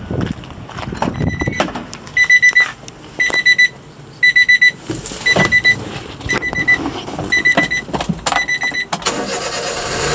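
Electronic warning beeper sounding in short pulsed bursts about once a second, roughly eight times, with scattered clicks between the beeps. A steady motor-like hum starts near the end.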